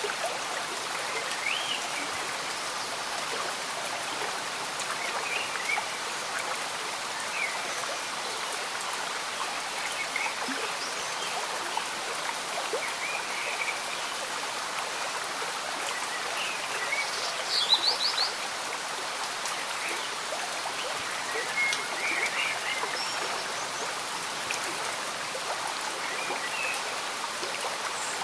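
A gentle stream bubbling under steady light rain, an even rushing wash. Short animal chirps are scattered through it, with a brief louder flurry of calls a little past halfway.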